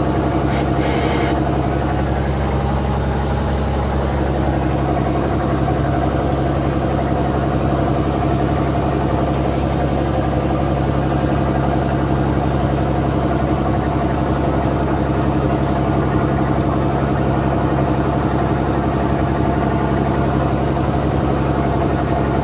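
Fishing boat's inboard diesel engine running steadily, an even drone.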